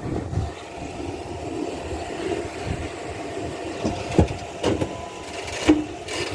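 Jeep engine running steadily at low revs, with three short sharp knocks in the second half.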